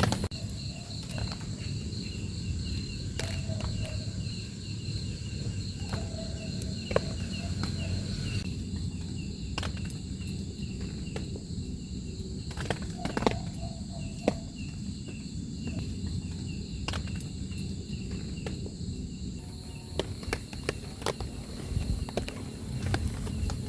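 Outdoor ambience: insects chirping steadily over a low, steady rumble, with scattered light knocks and clicks throughout.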